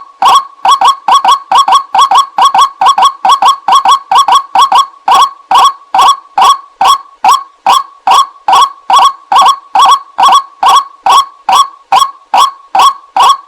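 White-breasted waterhen calling: a long run of loud, short, clipped notes, repeated about three times a second, often in close pairs, with no pause.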